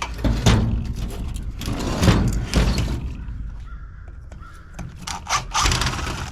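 Irregular metal clanks, rattles and scraping as the parts of a golf cart charger are handled and pulled apart.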